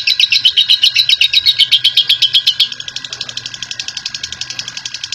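Lovebird giving a long, fast chattering trill (ngekek panjang) of sharp high notes, about ten a second. A bit under three seconds in it drops to a quieter, slightly faster trill.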